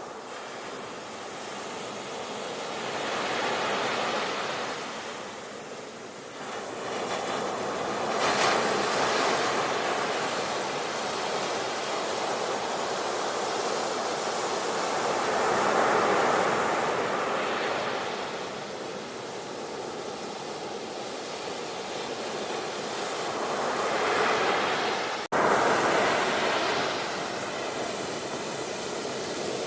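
Sea waves breaking and washing ashore, the surf rising and falling in slow swells several seconds apart. Near the end the sound cuts out for an instant and comes back louder.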